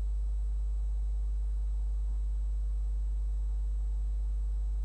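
Steady low electrical hum with faint overtones above it, unchanging throughout: unwanted mains-type hum on the recording.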